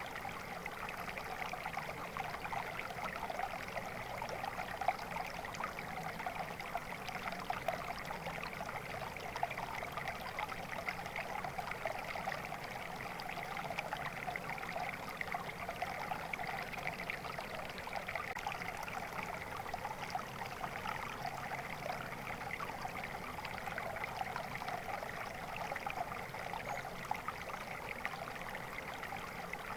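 Flowing water running steadily, a continuous rush with many small splashes and trickles through it.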